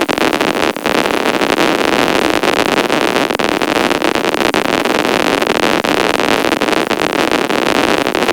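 Electric arc welding a fillet weld: a steady, loud, dense crackle of the arc, cutting off abruptly at the very end as the arc is broken.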